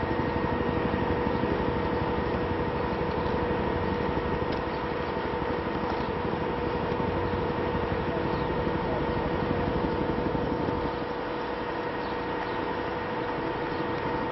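Steady vehicle engine noise, a dense rumble with a constant whine over it, dropping slightly in level about eleven seconds in.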